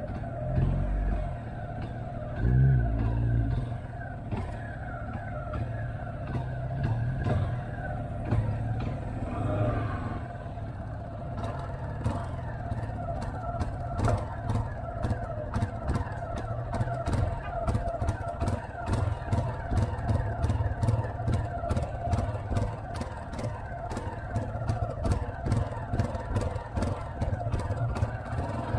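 Motorcycle engine running while riding, with wind and road noise on the microphone. The engine note rises and falls briefly about two to three seconds in.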